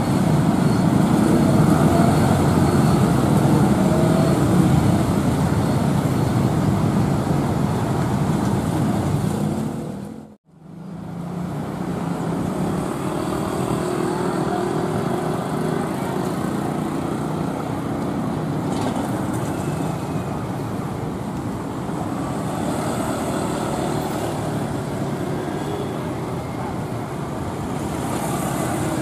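Steady rumble of a departing passenger train's coaches rolling away, cut off suddenly about ten seconds in. Then the steady drone of a CC 201 diesel-electric locomotive's engine as it slowly hauls a passenger train in.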